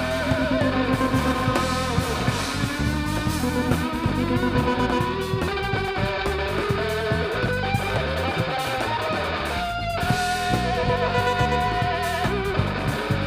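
A live band playing guitar-led rock music, with electric guitar over a steady bass line.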